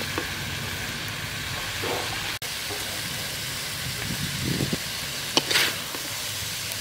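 Chicken gizzards, green bell peppers and carrots sizzling steadily in a hot wok. A few scrapes of a spatula stirring the pan come through, the loudest about five and a half seconds in.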